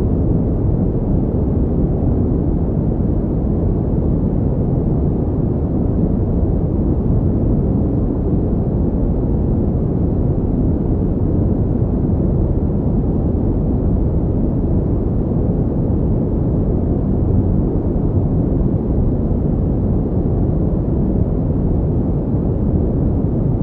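Steady pink noise: an even, unchanging hiss weighted toward the low end, with a deep rushing quality.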